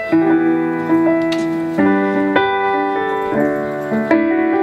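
Piano or electric keyboard playing the opening chords of a song, sustained chords changing about once a second.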